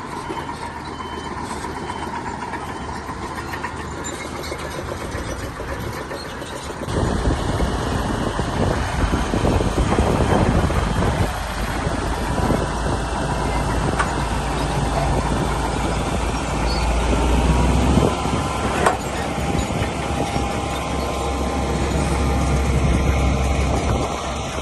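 Shantui bulldozer's diesel engine running, growing suddenly louder and deeper about seven seconds in and staying heavy after that, with a couple of short clicks.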